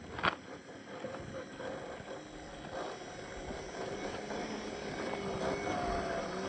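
Small electric motor and gearbox of a scale RC crawler whining, the pitch wavering up and down with the throttle and growing louder over the few seconds. A sharp knock comes about a third of a second in.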